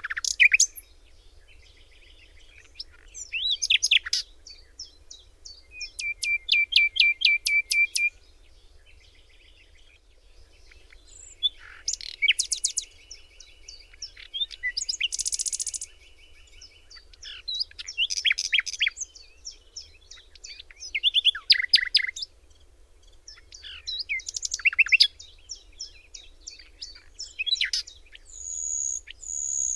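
Songbirds singing and calling in repeated bouts of high chirps and trills with short pauses between them, including a rapid, even rattle of notes about six seconds in and a long buzzy trill from about twelve to sixteen seconds.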